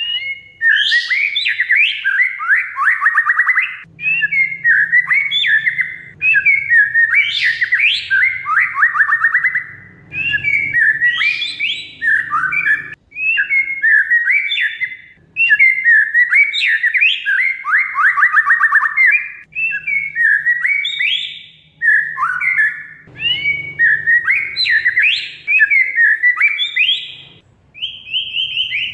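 Oriental magpie-robin (kacer) singing steadily in varied phrases of a second or two each, with short gaps between them. The phrases are made of rapid, rattling trills and quick rising and falling whistles.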